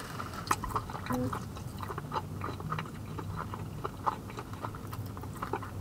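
A person chewing a mouthful of fried chicken sandwich with the mouth closed: many small, irregular wet clicks and smacks.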